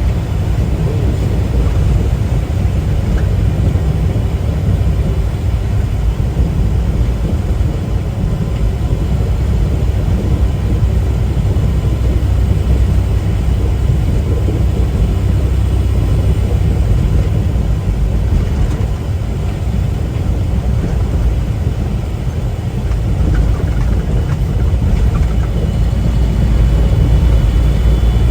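Steady low drone of a semi-truck's engine and road noise heard from inside the cab while driving.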